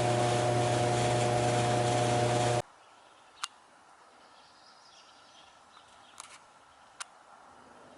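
Gas furnace's belt-driven blower running with a steady, even hum of several fixed tones, its motor pulley newly replaced. The hum cuts off abruptly about two and a half seconds in, leaving quiet with a few sharp clicks and faint chirps.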